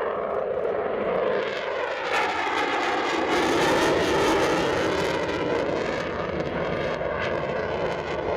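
Eurofighter Typhoon's twin EJ200 jet engines roaring as the fighter pulls through its display manoeuvre overhead. The roar has a rippling, phasing quality and swells to its loudest around the middle.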